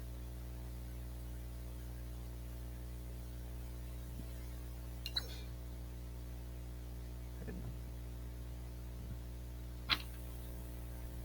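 Steady electrical mains hum, with two faint clicks, one about five seconds in and one near the end.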